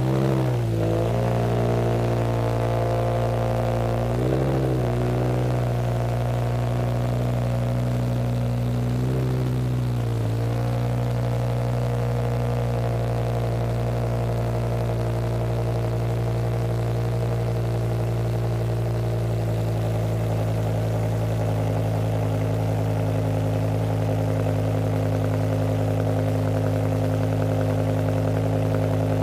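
BMW E60 M5's V10 engine idling through an aftermarket exhaust, given a few brief, light throttle blips: just after the start, about four seconds in and around ten seconds in. It then settles to a steady idle.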